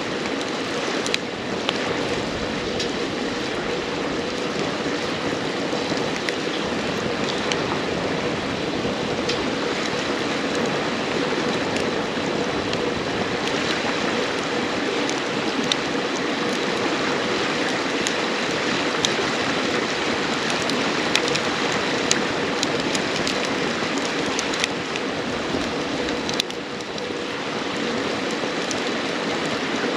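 A river flowing steadily, with a wood campfire crackling over it in scattered sharp pops.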